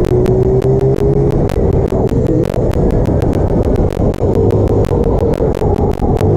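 Small motorbike engine running while being ridden, its note wavering slightly, over a heavy low rumble of wind. Rapid sharp clicks run through the sound.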